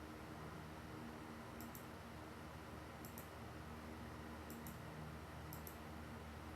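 Faint pairs of short, sharp, high-pitched clicks, one pair every one to two seconds at uneven gaps, over a steady low hum and hiss.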